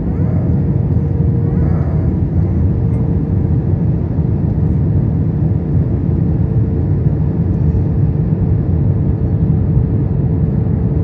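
Steady roar of engines and airflow inside an Airbus A321 cabin during descent, with flaps partly extended, and a thin steady hum running through it.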